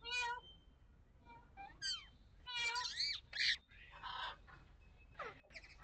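A series of short animal calls, pitched and bending up and down, coming in quick succession with brief gaps.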